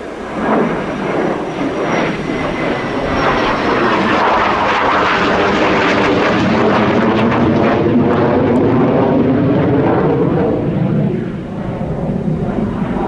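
Mitsubishi F-2 fighter's jet engine passing close while landing: a high whine falling in pitch gives way to a loud roar that swells about four seconds in, holds, and eases near the end.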